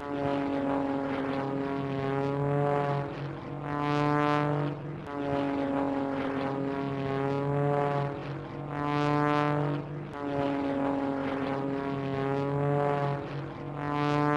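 Cartoon propeller airplane engine droning steadily, swelling louder and a little higher in pitch about every five seconds as if flying past.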